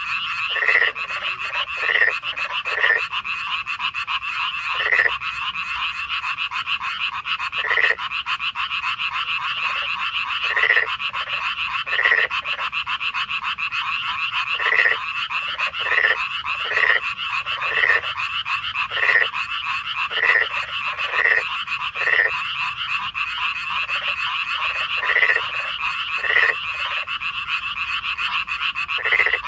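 Chorus of many frogs calling together: a dense, continuous trilling, with louder single croaks standing out about once a second at irregular spacing.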